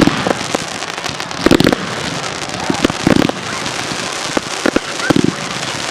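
Fireworks display: continuous crackling and popping, with four louder bangs through it.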